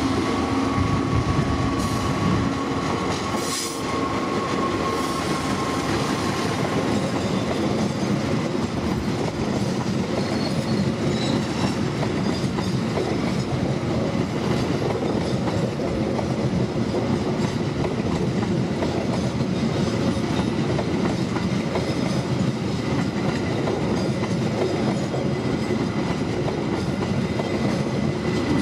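A train running past on the tracks, a steady, continuous rumble and rattle of wheels on rail. A thin high tone in the first few seconds fades out.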